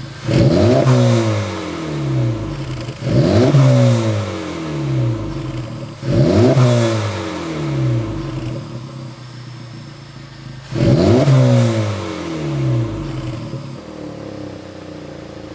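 Acura Integra Type S turbocharged 2.0-litre four-cylinder revved four times from idle through a Milltek Road+ valved stainless cat-back exhaust. Each blip rises sharply and falls back to a steady idle, the last coming after a longer pause.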